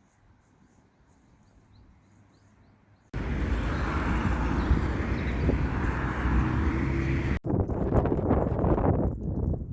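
Faint outdoor quiet with a few small bird chirps, then about three seconds in a loud, rumbling rush of wind buffeting the microphone begins abruptly. It breaks off briefly near the end and comes back before fading.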